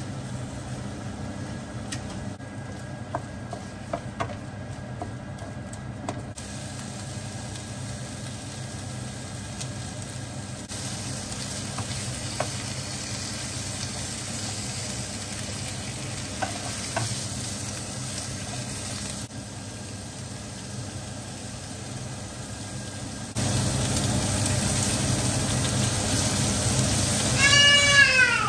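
Food sizzling and frying in a pan, with a few light clicks along the way and the sizzle louder for the last few seconds. Near the end a cat meows once, the loudest sound.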